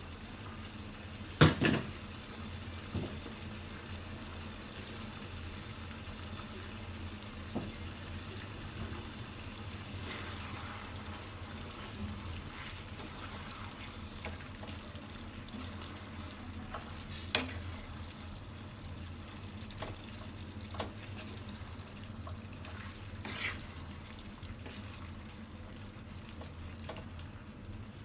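Chicken simmering in a yoghurt masala in a pan on the stove: a steady, gentle sizzle, with a few short clicks of a utensil against the pan.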